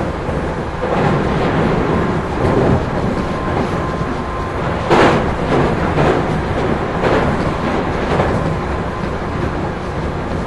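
Onboard running sound of a JR 213 series electric train, heard inside motor car KuMoHa 213-3: a steady rumble of wheels on rail with rail-joint clacks at uneven spacing, the loudest about five seconds in.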